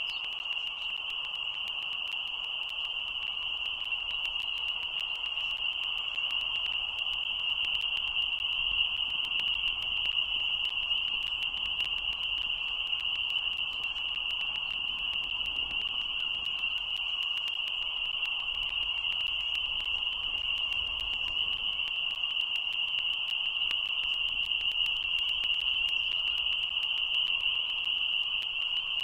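A chorus of frogs calling together in a continuous, dense high-pitched peeping, with a fainter lower hum beneath.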